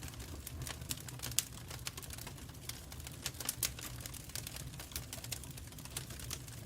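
Wood fire crackling in a fireplace: irregular sharp pops and snaps, the loudest about a second and a half in, over a steady low rumble.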